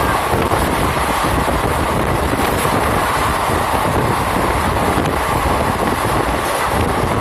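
Steady rushing noise of a moving passenger train, heard from a carriage window with wind buffeting the microphone.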